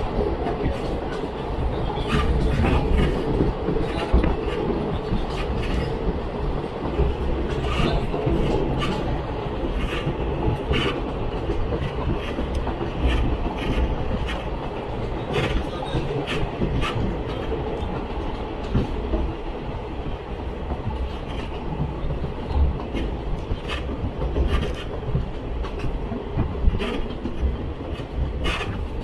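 Train running on its track: a steady rumble of wheels on rail, with frequent short clicks and knocks at irregular intervals.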